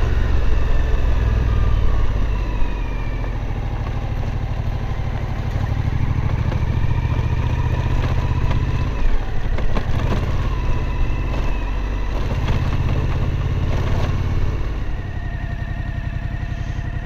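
Suzuki V-Strom 1050's V-twin engine running while the bike rides a rocky dirt road, its pitch rising and falling with the throttle, with scattered knocks and rattles. Near the end it settles to a steadier, quieter note.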